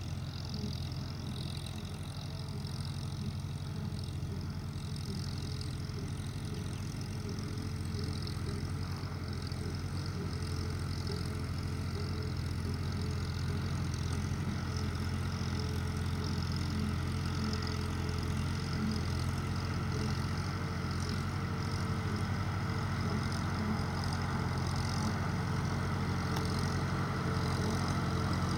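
Old Farmall tractor engine running steadily, growing slowly louder through the stretch.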